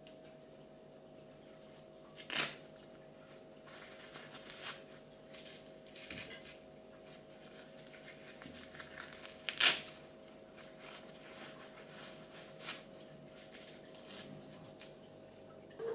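Kitchen handling sounds: rustling and crinkling as something is handled, broken by two sharp knocks, over a faint steady hum.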